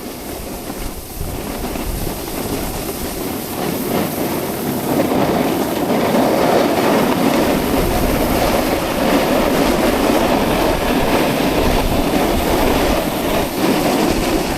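Snowboard sliding and scraping over snow on a downhill run, getting louder about two seconds in, with wind rumbling on the microphone.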